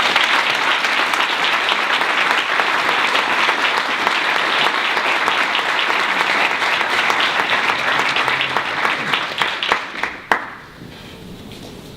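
Audience applauding: dense, steady clapping that dies away about ten seconds in, leaving quiet room tone.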